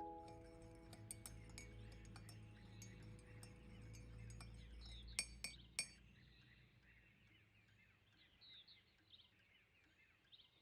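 Faint glassy clinking and light clicks, two of them sharper about five seconds in, as a piano chord dies away at the start. Faint bird chirps come in over the second half.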